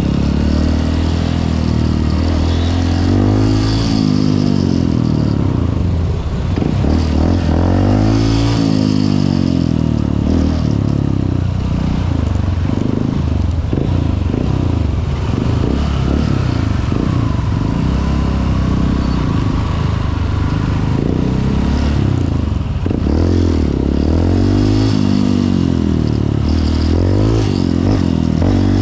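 Honda CRF150L's single-cylinder four-stroke engine running under way, rising in pitch as it accelerates through the gears several times: a few seconds in, again at about eight seconds, and twice more near the end.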